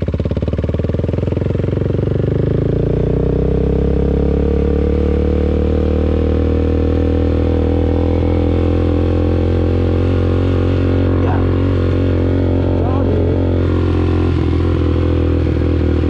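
Motorcycle engine pulling away: it pulses at a low idle at first, rises in pitch over the first few seconds, then holds a steady speed.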